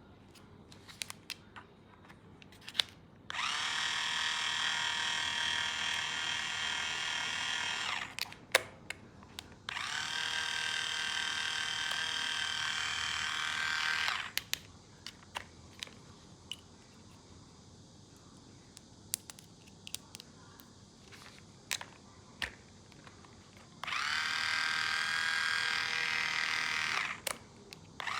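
Toy battery-powered drill's small motor whirring in three steady runs of a few seconds each, with sharp clicks and plastic taps from handling in between.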